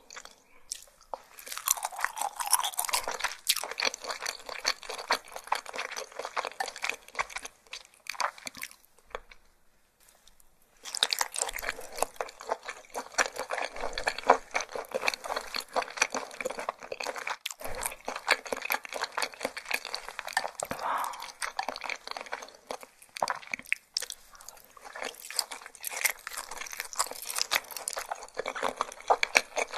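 Close-miked crunchy chewing of skin-on raw fish sashimi, a dense run of crisp crackles. The chewing stops for about two seconds around nine seconds in, then starts again.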